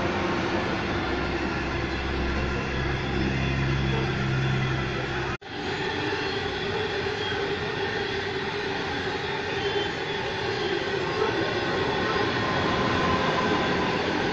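Coal hopper wagons of a long electric-hauled coal train rolling past, a steady rumble and clatter of wheels on rail. The sound cuts out for an instant about five seconds in, then the passing continues.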